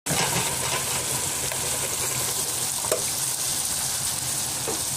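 Chopped tomatoes and onions sizzling in oil in a cooking pot, a steady hiss, with a short click about three seconds in.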